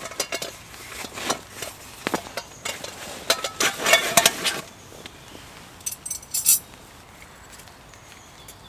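Hard objects clinking and knocking as gear is handled: a run of quick clicks and rattles over the first four and a half seconds, then a couple more about six seconds in.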